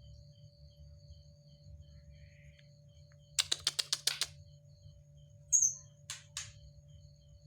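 White-rumped shama giving a quick burst of about eight sharp clicking calls, then a short high falling note and two more clicks, the agitated calling of a shama worked up.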